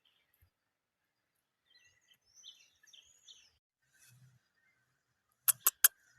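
Faint bird chirps in short rising and falling notes about two to three seconds in, then three sharp, loud clicks in quick succession near the end.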